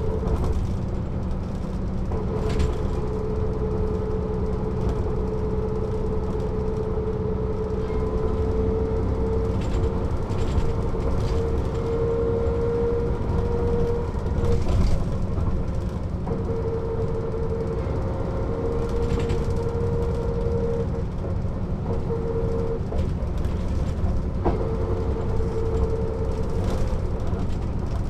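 Mercedes-Benz O 407 bus under way, heard on board: a steady diesel engine and road rumble with a steady whine that drops out and returns several times, and occasional knocks and rattles.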